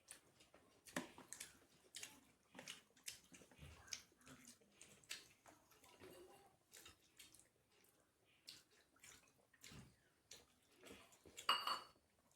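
Quiet eating sounds: scattered small clicks and taps of food being mixed and picked up from a plate, with chewing, and one sharper clink near the end.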